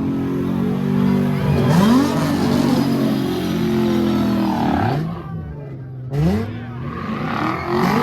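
A car engine running hard and being revved, its pitch sweeping sharply up and falling back about three times.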